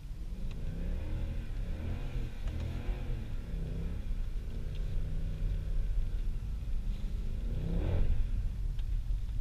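Tuned Mercedes C63 AMG V8 revving up and down in a string of short pulls, with a sharper rise in revs near the end.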